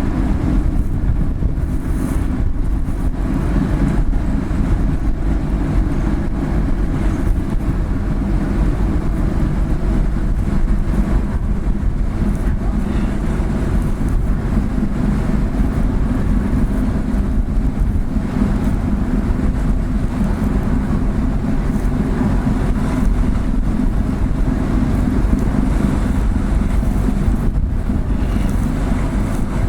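Steady low rumble of a car ferry's engines as the ship pulls away from port.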